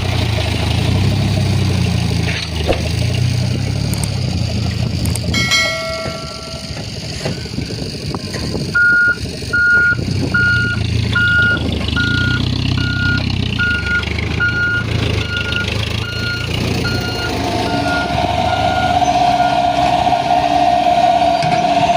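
Diesel dump truck engine running, then its reversing alarm beeping steadily about once every 0.8 seconds for around ten seconds. Near the end a steady whine joins in.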